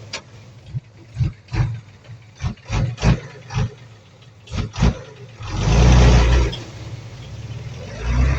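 Bulldozer's diesel engine running under a string of short, sharp knocks and thuds, with a louder rush of noise about six seconds in.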